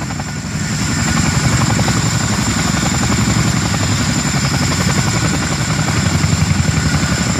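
Boeing CH-47 Chinook tandem-rotor helicopter running close by: a rapid, even beat of rotor blades under a steady high turbine whine. It grows louder about a second in.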